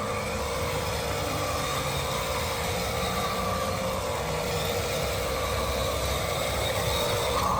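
Huina 1:14 scale RC excavator and dump truck working, a steady mechanical drone of their motors or engine-sound effects.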